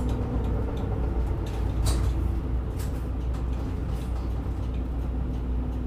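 Route bus running, heard from inside the cabin: a steady low engine drone with a constant hum, and a few short clicks and rattles about two and three seconds in.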